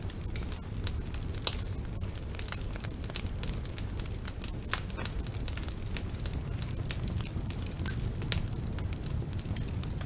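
Wood fire burning in a fireplace: a low steady rumble of flames with frequent sharp crackles and pops, one louder pop about a second and a half in.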